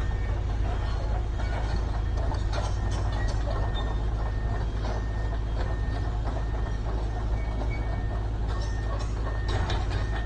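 Heavy construction machinery running with a steady low engine rumble, and irregular metallic knocks and clanks over it, a little more frequent near the end.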